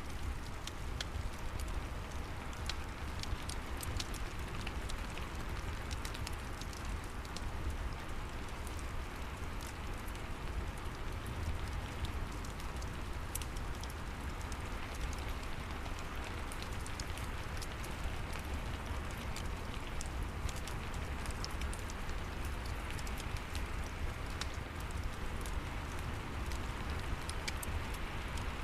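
Steady rain with a low rumble underneath, and scattered sharp crackles from a wood fire in a fireplace.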